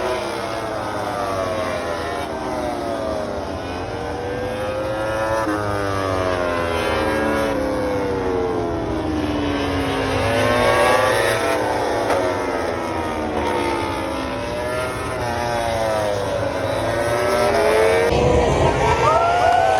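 Several racing motorcycles accelerating past at full throttle. Their engine notes overlap, each climbing in pitch and dropping sharply at every upshift, with one loud pass near the end.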